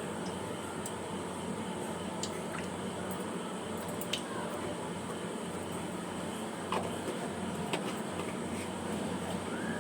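Steady sizzle of frying in a kadai of hot white oil and ghee, with a few light clicks of a utensil against the pan.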